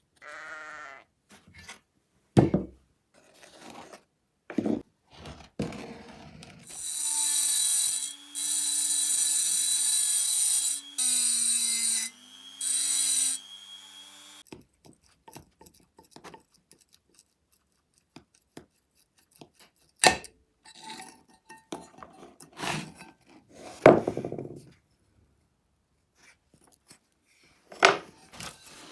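A small electric power tool runs in several short bursts in the middle, a steady high whir with a low hum that shifts in pitch between runs. Before and after it come scattered knocks and clinks of tools and metal parts being handled.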